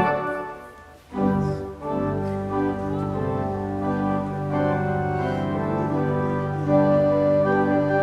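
Organ music: a held chord is released and dies away in the room's reverberation. About a second in, the organ comes back in with sustained chords.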